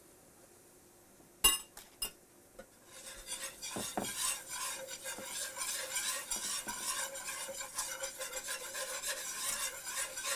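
Two sharp clinks of metal on the pan, then a whisk stirring flour into hot bacon grease and steak drippings in a skillet, a busy scraping and clicking over a light sizzle. This is the roux being started for sawmill gravy.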